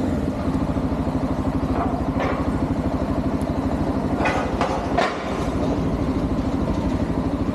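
An engine idling steadily with an even, rapid pulsing, with a couple of short knocks about four and five seconds in.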